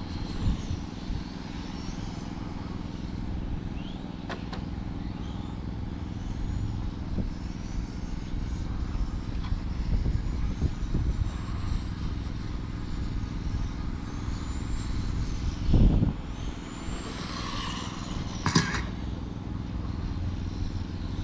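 Electric 1/10-scale RC touring cars with 25.5-turn brushless motors running on the track. The motors whine, rising and falling in pitch as the cars pass, over a steady low hum. There is a loud thump about sixteen seconds in and a sharp knock a couple of seconds later.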